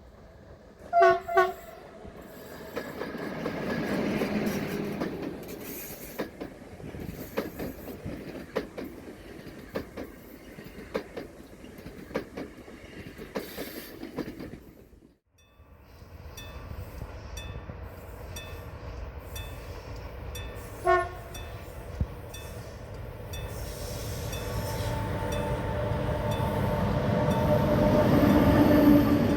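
Train horn sounding two short blasts, followed by a train passing with its wheels clicking over the rail joints. After a break about halfway, a train approaches, sounds one short horn blast and grows steadily louder toward the end.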